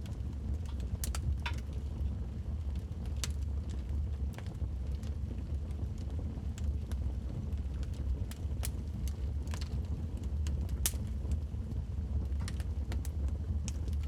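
Wood fire burning in a fireplace: a steady low rumble of flames with irregular sharp crackles and pops from the burning logs, one louder pop about three-quarters of the way through.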